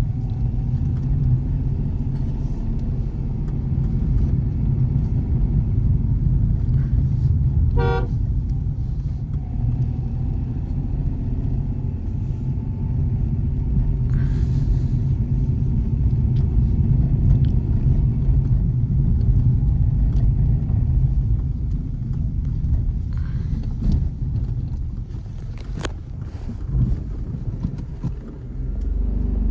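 Nissan Magnite driving, a steady low rumble of engine and road noise, with a car horn tooting briefly about eight seconds in.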